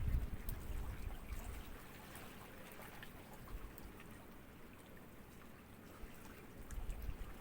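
Small sea waves lapping gently. A wash of water is strongest at the start and fades within about two seconds, leaving a quieter trickle with scattered small splashes and drips, before the next wave builds near the end.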